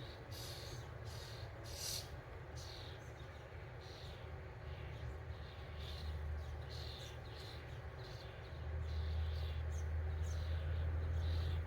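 Small birds chirping in short, repeated calls, over a steady low rumble that grows louder about two-thirds of the way through.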